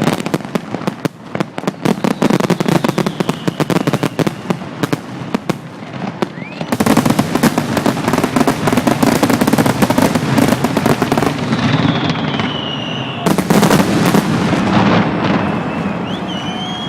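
Aerial fireworks in a closing barrage. It opens as a rapid string of sharp bangs and crackles, and about seven seconds in it turns into a dense, continuous wall of explosions and crackling, with a second heavy salvo coming in near the end.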